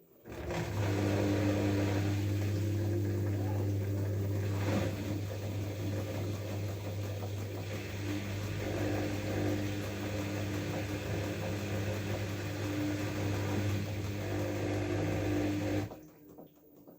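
LG F12A8ND front-loading washing machine running with a steady hum. It starts just after the beginning and cuts off suddenly about a second before the end.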